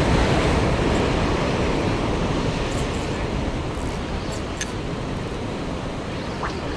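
Sea surf breaking and washing against a tetrapod breakwater: a steady rushing noise that eases slightly over the seconds.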